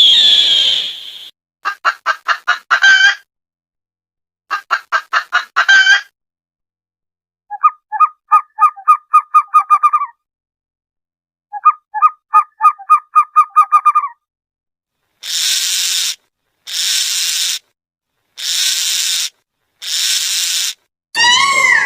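A string of recorded animal and bird calls, mostly fowl, each played twice with short gaps. First come quick clicking runs, then fast pulsed gobbling calls, then four short hissing bursts near the end.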